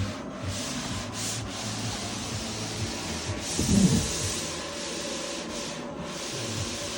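Squeegee rubbing and scraping over protective film as it is smoothed onto a motorcycle part, with a louder squeak about halfway through.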